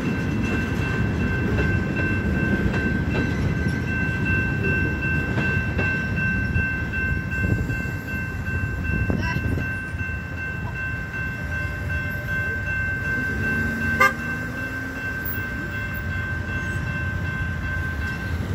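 Freight train of flatcars rolling through a grade crossing, its low rumble easing off about halfway through as the last car clears, under a steady high ringing from the crossing warning bell. A sharp click with a brief low tone about fourteen seconds in.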